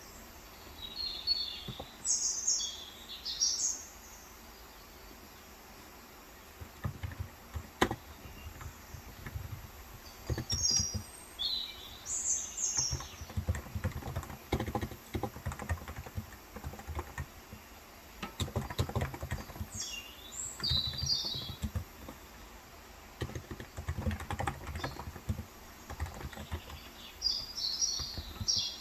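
Typing on a Cox Endeavor electro-capacitive (Topre-style) tenkeyless keyboard with 35 g switches: runs of soft, dull keystrokes with pauses, starting about a quarter of the way in. A bird chirps in short bursts of high calls four times, the first near the start and loudest.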